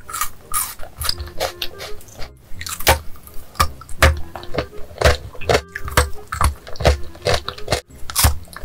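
Close-miked biting and chewing of chocolate bars: irregular crisp snaps and crunches, several a second, with soft background music underneath.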